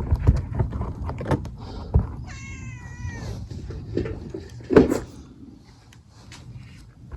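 A cat meows once, a single call about a second long that bends slightly down in pitch. Scattered clicks and knocks sound around it, with a louder knock about five seconds in.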